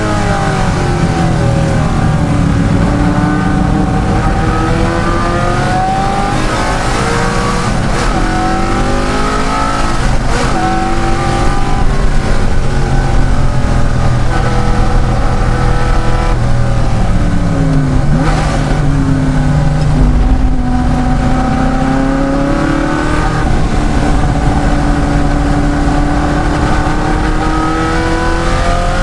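De Tomaso Pantera's V8 racing hard, revs climbing steeply in one gear after another and dropping back at each shift, with a deeper dip and recovery about two-thirds of the way through.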